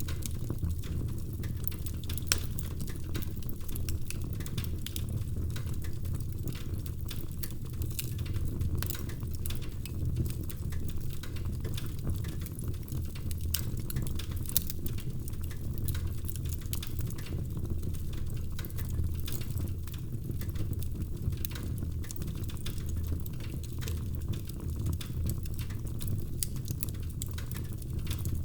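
Wood fire burning in a fireplace, crackling steadily: constant small snaps and pops over a low rumble of the flames, with a couple of louder pops.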